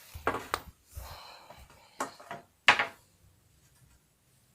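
A few sharp knocks of hard objects and a short scraping rustle, with the loudest knock about two and a half seconds in.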